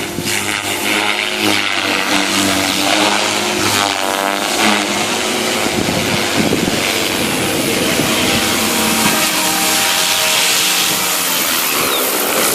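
Devil 380 radio-controlled model helicopter running loud and continuously: its motor and main rotor make a whine over a rushing hiss. The pitch dips and rises several times, around the start and again about four seconds in.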